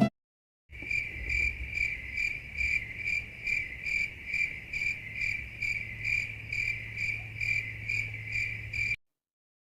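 A cricket chirping steadily, about two or three chirps a second, with a low hum underneath: the classic crickets sound effect. It starts about a second in and cuts off near the end.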